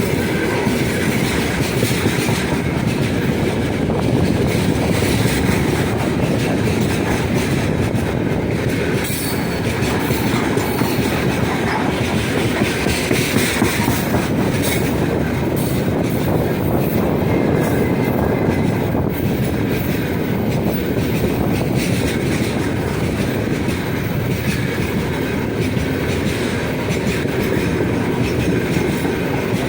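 Heavy freight train's wagons rolling past, their steel wheels clacking over the rail joints over a steady rumble.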